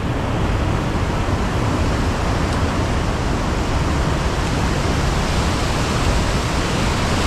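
High Force waterfall: the steady rush of the River Tees dropping between dolerite rocks into the pool below.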